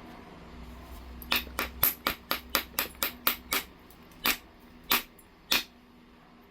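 Sharp clicks of a knapping tool striking heat-treated jasper: a quick run of about ten light taps, roughly four a second, then three more, spaced slower.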